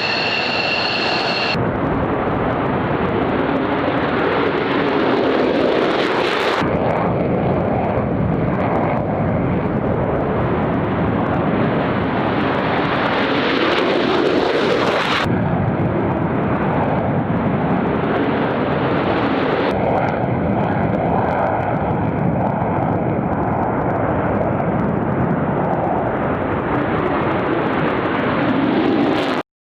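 Military jet aircraft taking off, loud steady jet-engine noise, heard in several shots joined by abrupt cuts, with a faint turbine whine in the later part. It cuts off suddenly near the end.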